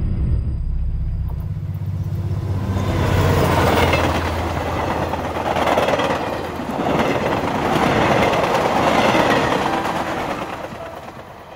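Railroad cars rolling past on the track: a low rumble gives way to a loud rattling clatter of wheels on rail that swells and eases several times, then fades near the end.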